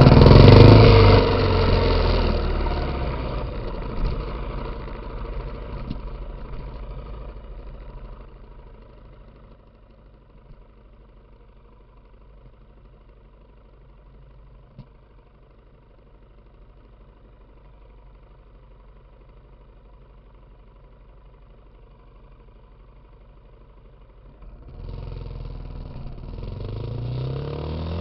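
Suzuki Intruder motorcycle engine, loud at first and dying away over about ten seconds to a low steady hum. About 25 seconds in the engine sound comes back suddenly, with revs rising.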